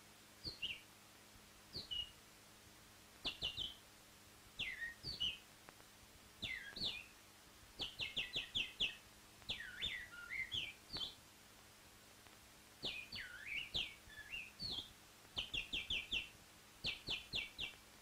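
Bird chirping in short bursts: quick downward-sliding chirps and rapid runs of four or five high notes, with pauses of a second or so between phrases, over a faint steady hum and hiss.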